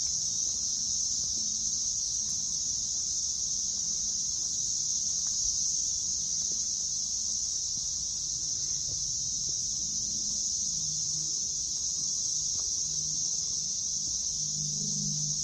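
Chorus of many cicadas making a steady, high, unbroken buzz.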